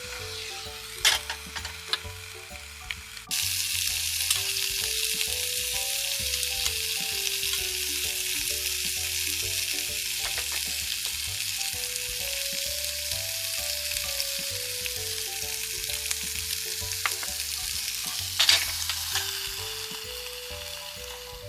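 Food sizzling and frying in a hot pan, a steady dense hiss that starts suddenly about three seconds in and fades near the end, with a few light clicks before it and a sharp knock of a utensil about eighteen seconds in.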